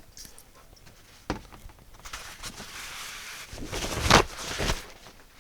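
A single knock, then a few seconds of rustling, clicking and handling noise as parts and tools are moved about on a workbench.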